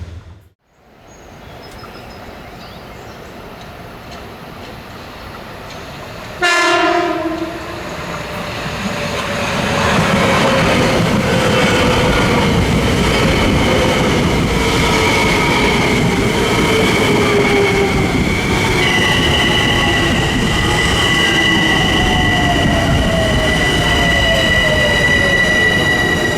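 Metro-North commuter train sounding one short horn blast about six seconds in, then approaching and running past loudly, wheels clicking over the rails, with a high steady whine and a slowly falling tone as it goes by.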